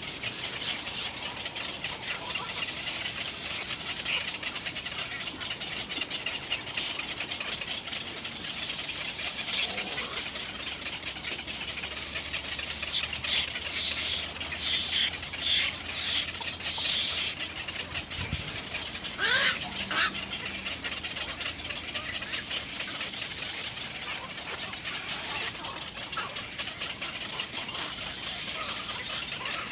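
Birds calling over a steady high hiss, with louder clusters of short calls about halfway through.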